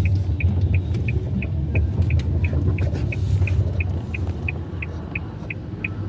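Car driving along, with a steady low engine and road rumble. A short high chirp repeats evenly about three times a second over it.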